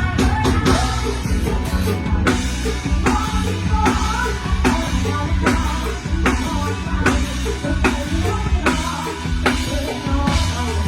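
Live mor lam band music with a steady drum-kit beat and bass drum.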